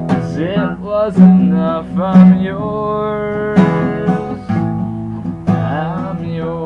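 Acoustic guitar strummed with a voice singing over it, several long sung notes.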